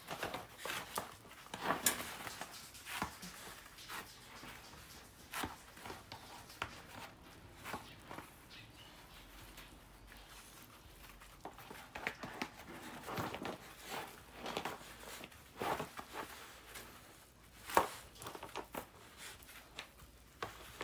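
A dog's paws scuffing and pattering as it plays with a ball, with irregular short knocks, thinning out in the middle and one sharp knock near the end.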